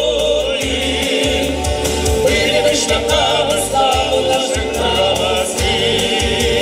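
Singers performing a Ukrainian song, with sung voices over an accompaniment that has a steady bass beat.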